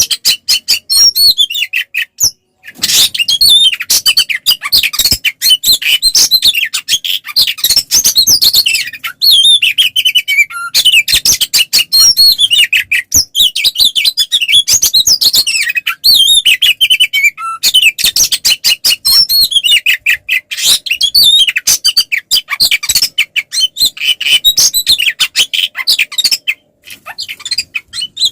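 Oriental magpie-robin (kacer) singing loudly in a long, nonstop run of rapid high chirps, whistles and scratchy notes, the full aggressive song used to provoke rival males. Brief breaks come about two and a half seconds in and again near the end.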